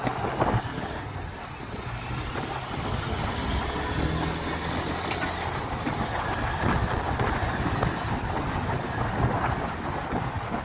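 Honda Hornet 160R's single-cylinder engine running while riding, with wind rushing over the microphone.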